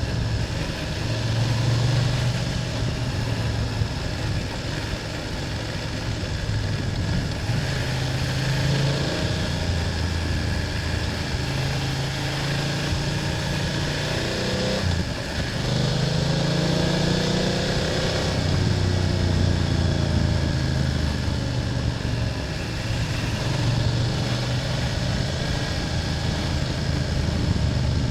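BMW F800GS parallel-twin engine running as the motorcycle is ridden, its pitch rising and falling with the throttle, with a brief drop about halfway through before it climbs again. Wind and road noise run underneath.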